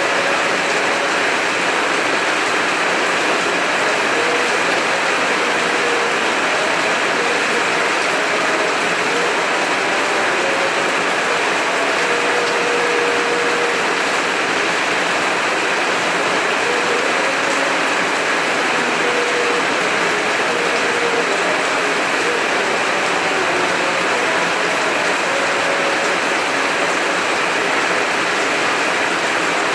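Heavy rain falling steadily, an even hiss at a constant level, with a few faint short tones under it.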